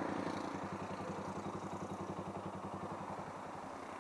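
Motorcycle engine idling: a steady, rapid, even beat of exhaust pulses that fades a little toward the end.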